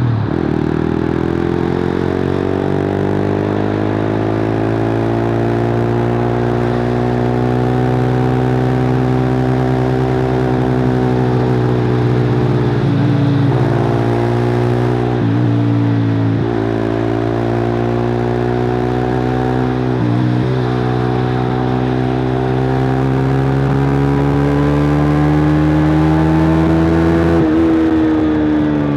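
Suzuki GSX-R150's single-cylinder engine heard through a cut-open exhaust while riding, the revs climbing slowly under throttle. The revs dip briefly a few times about halfway through and once more near the end.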